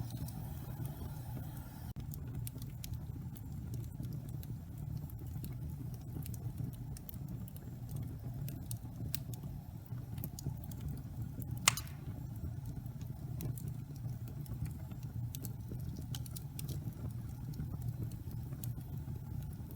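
Logs burning in a fireplace: a steady low rumble of the flames with small scattered crackles, and one louder sharp pop about halfway through.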